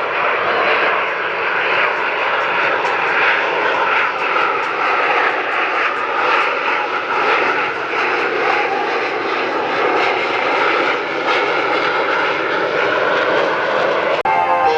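Jet engines of Blue Angels F/A-18 Super Hornets flying a pass: a loud, steady roar with a whine that slowly shifts in pitch. It cuts off suddenly near the end.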